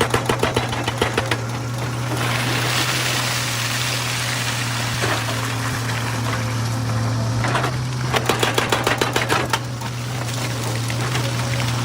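Excavator's diesel engine running steadily while its hydraulic rock breaker hammers stone in two bursts of rapid blows, each lasting about two seconds: one at the start and one about eight seconds in. A rushing noise fills the gap between the bursts.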